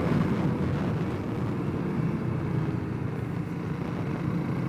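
Honda CRF300L's single-cylinder engine running steadily while riding, mixed with wind and road noise, easing off slightly from about a second in.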